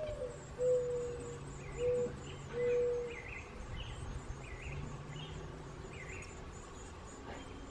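Another bird in the background gives low hooting notes, three of them in the first three seconds, over faint, high, short peeping from chickadee nestlings in the nest box.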